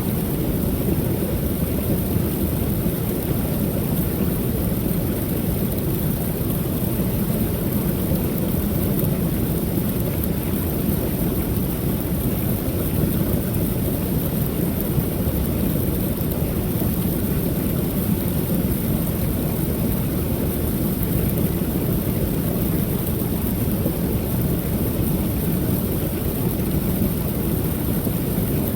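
Small creek waterfall pouring steadily: an unbroken rush of falling water, heaviest in the low rumble.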